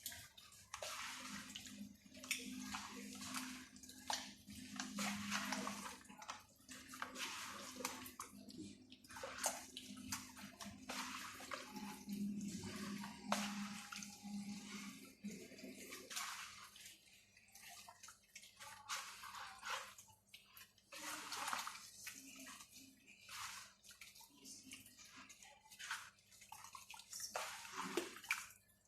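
Raw chicken pieces being mixed in a wet marinade of lemon juice, vinegar and olive oil: irregular wet squelching and sloshing. A low steady hum underneath stops about halfway through.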